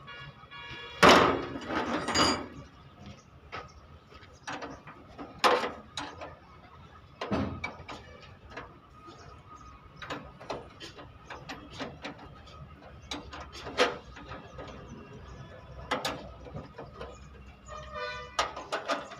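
Irregular sharp metal knocks and clanks from vehicle body-repair work, spaced a second or more apart, with the loudest burst of strikes about a second in.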